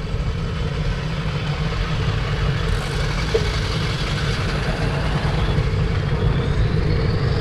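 Wind buffeting the microphone of a moving bicycle, with the road noise of a truck passing by. A rising tone near the end suggests a vehicle drawing near.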